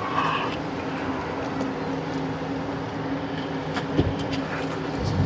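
Steady engine hum with a few fixed low pitches over a wash of outdoor traffic-like noise, and a short knock about four seconds in.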